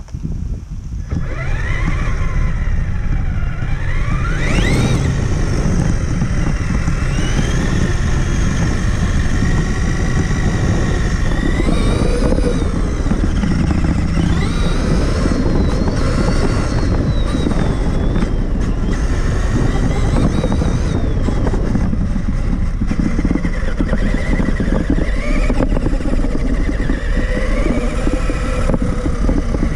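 Traxxas Summit 1/10 electric RC truck driving: the motor and gearbox whine rises and falls with the throttle over a steady rumble and rattle from the tyres and chassis. The sound picks up about a second in as the truck pulls away.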